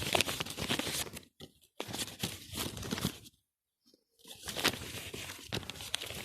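Close rustling and tearing as red campion stems are picked and handled, in three spells of a second or two each.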